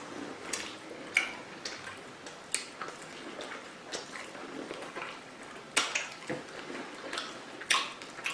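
Eating sounds close to the microphone: irregular wet clicks and crackles of food being chewed and handled, about one every half second to second.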